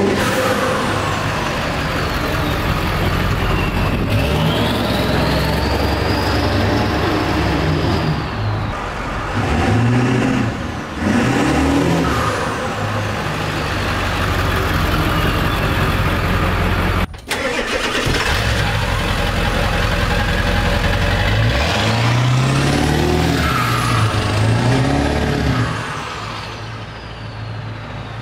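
Straight-piped 7.3 L Powerstroke V8 turbo diesel, fitted with a 10-inch exhaust tip, driving past and accelerating, the engine climbing in pitch, with a high turbo whistle gliding up and down. It breaks off about 17 seconds in, then a second pass follows that fades away near the end.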